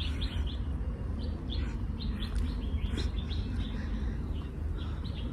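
Small birds chirping: a quick run of short, high chirps, several a second, over a steady low rumble.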